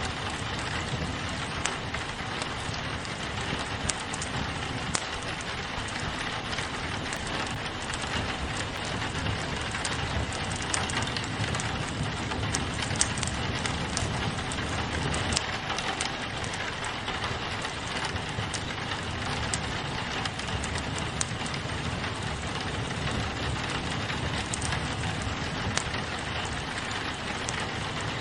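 Steady rain on a window mixed with a crackling wood fire, with scattered small pops and snaps from the fire over an even hiss.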